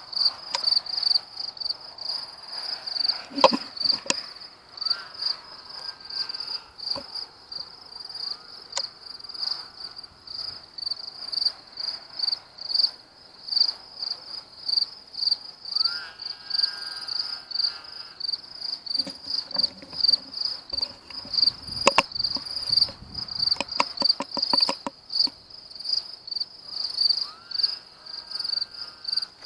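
Crickets chirping steadily in a rapid pulsing rhythm. A few short pitched animal calls come and go every several seconds, and there are a few sharp knocks, the loudest of them near the start and about two-thirds of the way through.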